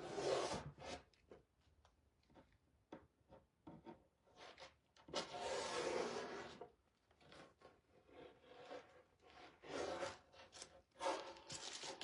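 Tape being peeled off a painted surface in several pulls, the longest lasting over a second about five seconds in.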